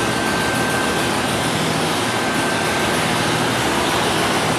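Chicago 'L' rapid-transit train rolling over elevated track with a steady rumble, a thin high whine over the first few seconds.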